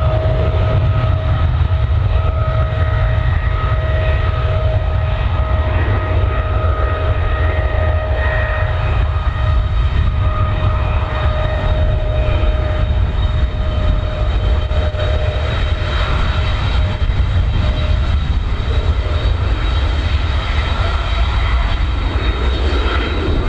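Jet airliner taking off under full thrust: a loud, steady engine rumble with a high whine over it, and the whine fades out about two-thirds of the way through as the aircraft departs.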